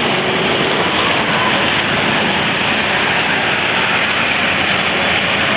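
Loud, steady street noise of traffic and a mass of cyclists riding out, a dense rush with no distinct events.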